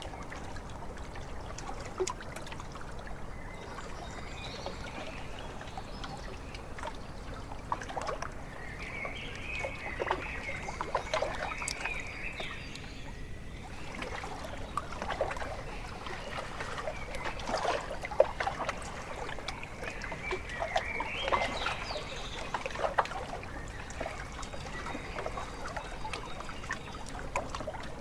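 Lake water lapping and trickling at the shore in many small splashes, with birds calling in several bouts over it.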